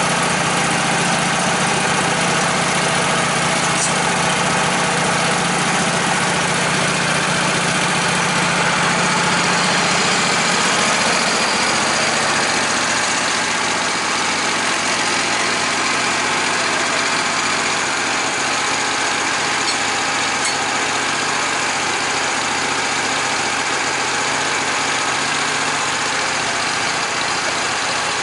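An engine running steadily; about twelve seconds in its low hum drops away and it gets slightly quieter.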